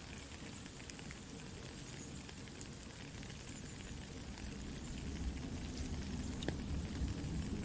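Soft steady rain hissing together with a campfire crackling in scattered sharp pops, the low rumble of the fire growing louder over the second half.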